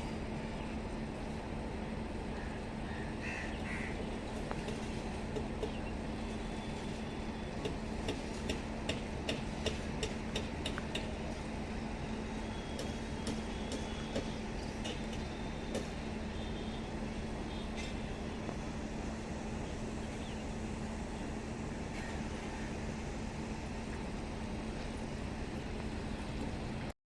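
MEMU electric train running, a steady hum under rumbling noise, with a quick series of clicks partway through.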